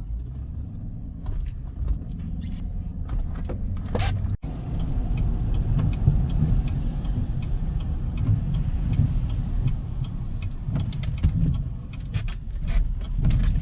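Truck driving, heard from inside the cab: a steady low rumble of engine and road noise. After a brief break about four seconds in, a faint, even ticking runs on at about three ticks a second.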